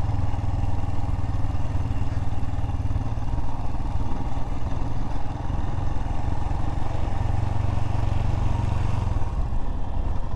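Royal Enfield Himalayan single-cylinder motorcycle engine running steadily at a low, even pitch while the bike rides down a rough mountain dirt road.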